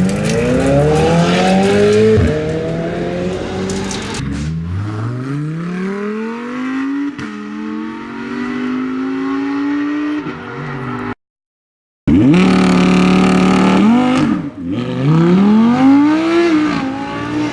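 Supercar engines accelerating hard away, the pitch climbing and then dropping at each upshift. After an abrupt cut with a second of silence, another car's engine is revved up and down several times.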